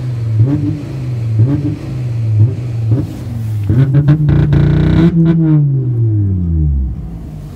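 Volkswagen engine held against a two-step launch rev limiter, its revs dipping and recovering about once a second as the limiter cuts in and pulses the car. About four seconds in it holds louder with a crackle, then the throttle is released and the revs fall away to idle near the end.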